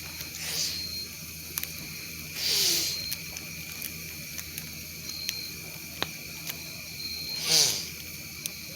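Crickets chirping steadily, with a campfire giving off a few sharp pops. Three short, loud hissing gusts stand out: one near the start, one about a third of the way in, and the loudest near the end.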